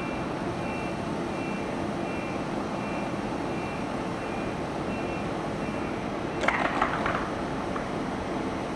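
Steady railway-station background noise with a short electronic beep repeating about every 0.7 seconds, then a brief cluster of sharp rattling clicks about six and a half seconds in.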